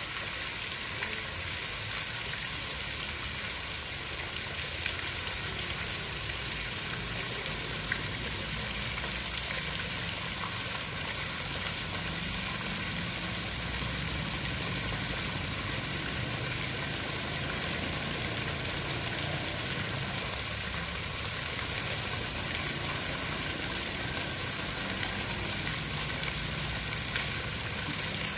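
Steady, even hiss of water with a low rumble underneath and occasional faint ticks.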